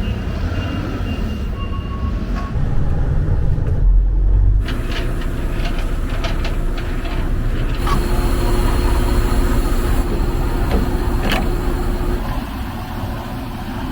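Semi-truck running on the road with a steady low engine and road rumble and a few short clicks and rattles.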